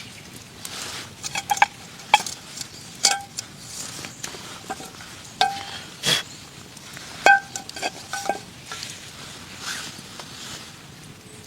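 Metal camp cookware clinking: a utensil knocking and scraping against a metal pot or pan about ten times at an uneven pace, several strikes ringing briefly.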